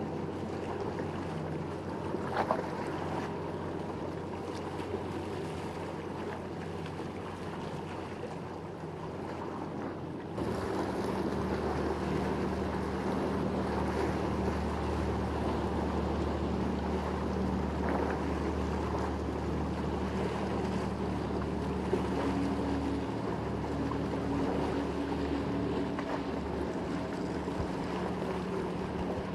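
Motorboat engines running steadily over wind and water noise. About ten seconds in, the sound steps abruptly louder, with a deeper steady hum.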